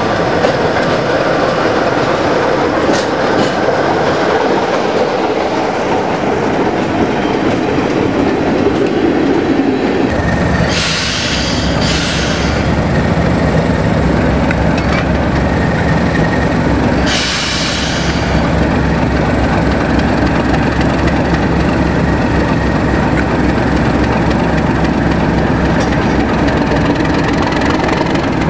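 Diesel-hauled train running past, wheels clattering on the rails over a steady engine hum that grows heavier partway through. There are two brief hissing noises, about 11 and 17 seconds in.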